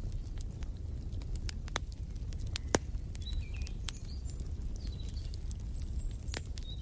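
Wood fire in a fireplace crackling, with irregular sharp pops over a steady low rumble, one loud pop about three seconds in. Faint bird chirps come through a few times in the background.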